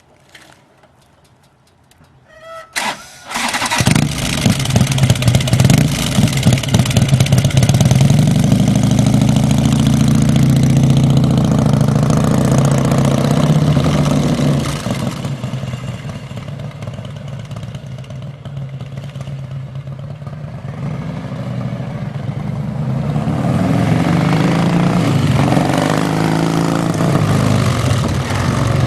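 A 100 cubic inch RevTech Evolution-style V-twin motorcycle engine, fitted with fishtail mufflers, cranks briefly about three seconds in and starts. It runs loudly at first, drops to a quieter idle about halfway through, and picks up again near the end.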